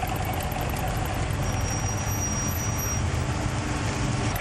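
A car engine running with a steady low rumble. A faint high-pitched whine sounds briefly in the middle.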